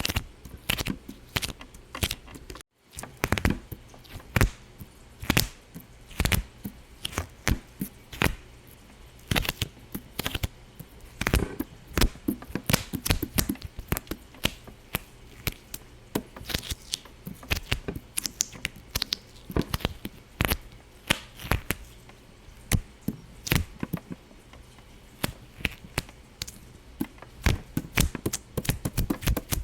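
Rapid, irregular sharp pops and clicks, several a second, with a brief cut-out about three seconds in.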